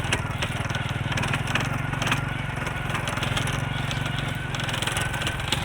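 An engine running steadily with a fine, even low pulse, with scattered clicks and knocks over it.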